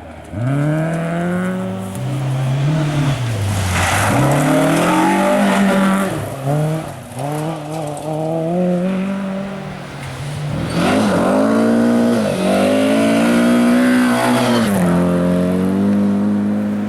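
Ford Escort rally car engine run hard, its pitch climbing and dropping again and again through gear changes and lifts off the throttle. Two rushes of hiss come about a quarter and two-thirds of the way through.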